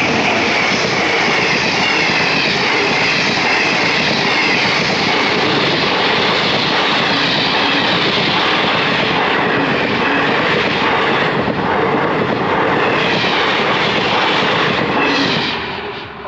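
An express train pulled by an electric locomotive passing close by at speed: a loud, steady rush of wheels on rail and rattling coaches, with some clatter in its later part. The sound falls away quickly near the end as the last coach goes past.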